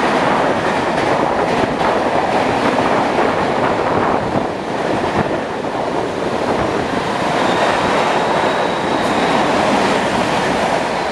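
Running noise of an EMU local train heard from its open doorway: a steady rush of wheel and coach noise with rattling clicks over the rail joints.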